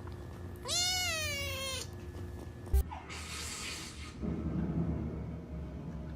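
A cat meows once: a long call of about a second that rises a little and then falls away. A sharp click follows, then about a second of hiss-like noise.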